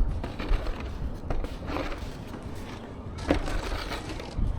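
Wind rumbling on the microphone, with a few short scraping sounds, one at about two seconds in and another a little past three seconds.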